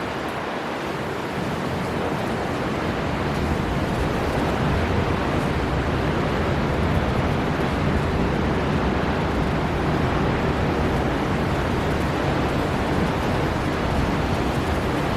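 Storm wind and surf on the sea shore: a steady, heavy rush of noise with a deep low rumble, building slightly over the first few seconds.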